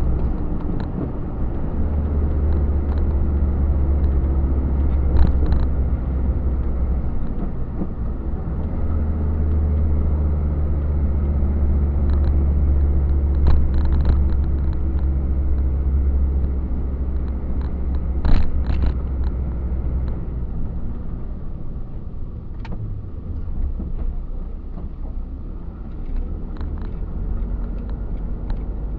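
Truck engine and road rumble heard from inside the cab while driving, a steady low drone that eases off about two-thirds of the way through, with a few short rattles or knocks from the cab.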